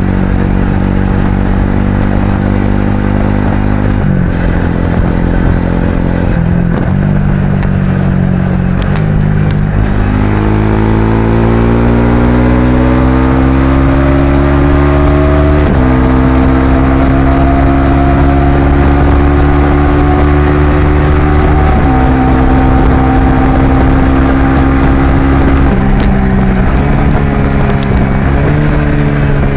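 Suzuki V-Strom SX 250's single-cylinder engine running under way, its exhaust note climbing steadily in each gear and dropping sharply at gear changes, twice in the middle and a few more times near the end.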